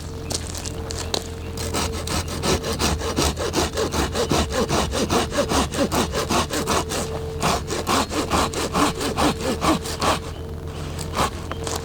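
Hand saw cutting through wood in quick back-and-forth strokes, about four to five a second. The strokes begin a second or two in, stop about ten seconds in, and a few more come near the end.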